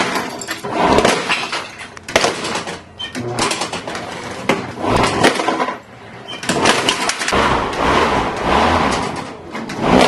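Lawnmower smashing a plastic toy: loud, irregular cracking and clattering of breaking plastic.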